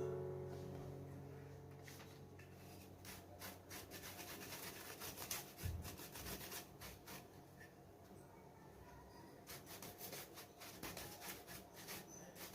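Hands working on a laptop's case and parts during disassembly: a string of small irregular clicks and rubbing scrapes. A background piano chord dies away at the start.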